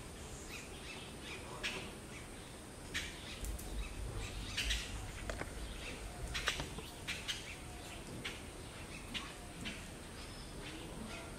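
Birds chirping in short, scattered calls over a steady outdoor background, with a brief low rumble a few seconds in.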